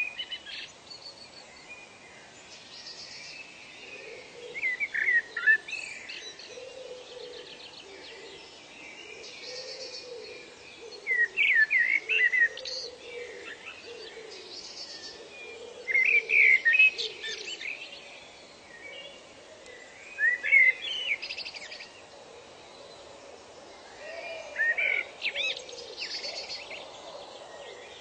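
Birdsong: a songbird repeats a short, quick phrase of rising and falling notes about every four to six seconds, five times. Fainter calls of other birds run steadily in the background.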